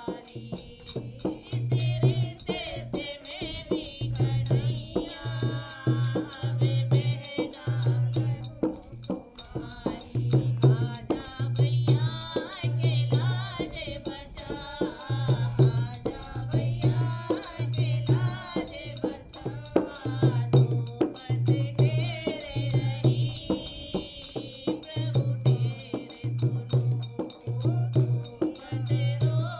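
A Hindi devotional bhajan being sung, with a steady beat from a drum and jingling rattle-type percussion keeping time under the voice.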